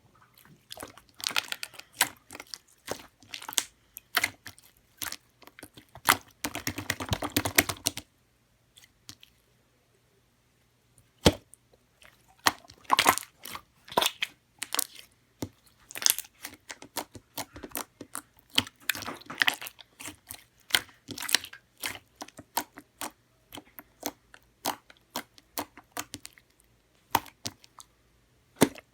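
Close-up eating sounds of lemon pudding: irregular wet smacks, clicks and chewing, pausing briefly about a third of the way in.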